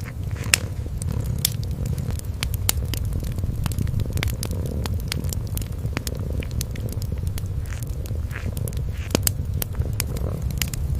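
A kitten purring in a low, steady rumble while a wood fire crackles with frequent sharp pops.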